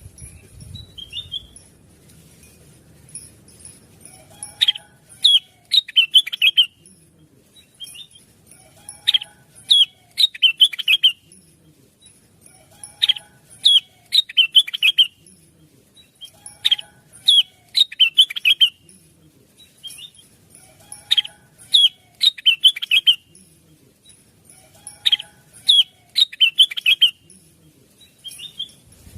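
Cucak wilis leafbird song: the same phrase of quick, down-slurred whistled notes repeats about every four seconds, six times. It is a lure recording played to make caged cucak wilis answer and sing.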